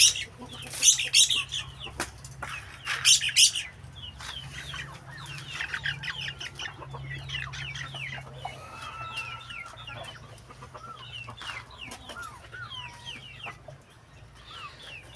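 Chickens clucking and squawking. Two loud, harsh squawks come in the first few seconds, then many short chirping calls.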